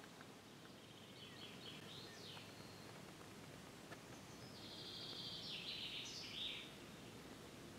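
A songbird singing faintly in two short, high trilled phrases, the first about a second in and a louder one around five to six seconds in, each ending in a quick rising sweep, over a steady low outdoor hiss.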